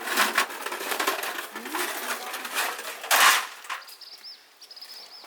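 Metal parts and tools clinking and clattering as they are handled, with a loud clank about three seconds in. A bird chirps near the end.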